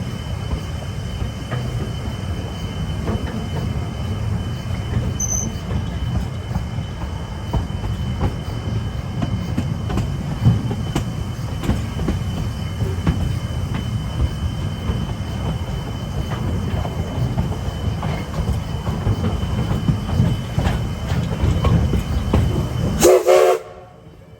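Narrow-gauge train running, a steady low rumble with the clatter of wheels over rail joints. Near the end comes a brief louder burst, and then the sound cuts off sharply.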